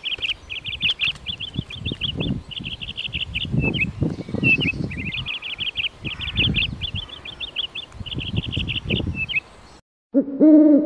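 Grey squirrel chattering: high, rapid pulsed calls in short bursts with a few chirps between them, over soft rustling and thumping. The same run of calls plays twice. Near the end, after a brief gap, an owl's low hoot begins.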